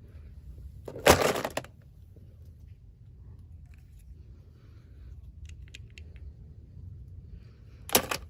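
Handling noise: a loud crackling rustle about a second in that lasts about half a second, a few faint clicks, and a short sharp crackle near the end.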